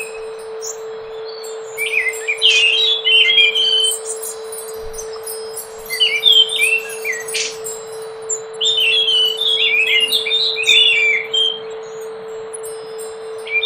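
Scaly thrush singing in three bursts of quick, warbling chirpy phrases with short pauses between them, over a steady low hum.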